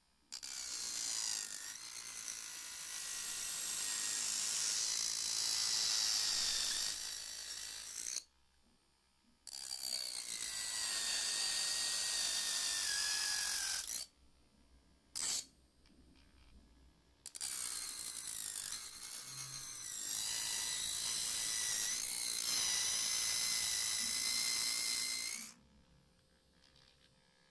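Small DC motor of a homemade mini drill running with a high whine, switched on for three runs of several seconds each and a brief blip, stopping in between.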